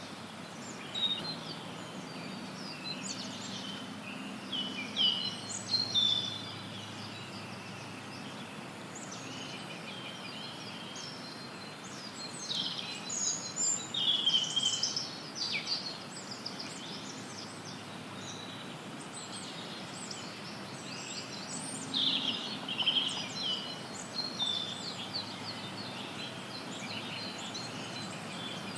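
Forest songbirds chirping and trilling in bursts over a steady hiss of added white noise.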